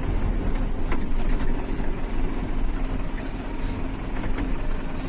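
Truck engine running steadily at low speed, with a few knocks and rattles from the truck as it moves over a dirt track.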